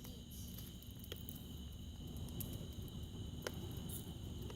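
Steady chorus of crickets, a high, even trilling that does not break. Two short sharp clicks sound about a second in and about three and a half seconds in.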